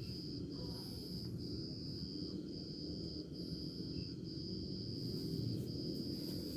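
An insect, such as a cricket, trilling steadily at a high pitch and breaking off briefly about once a second, over a low, even rumble of background noise.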